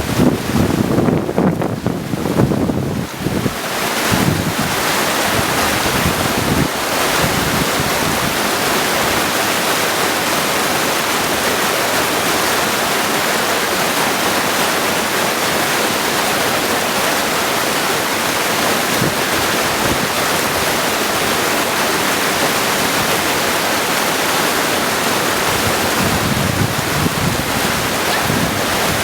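Mountain creek rushing steadily over stones. In the first few seconds, and briefly near the end, gusts of wind rumble on the microphone.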